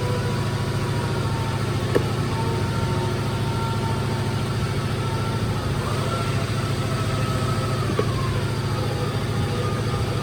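A motor-driven machine running steadily, with a low hum and a whine that rises about six seconds in and drops back about two seconds later. Two faint clicks are heard, about two seconds in and again near eight seconds.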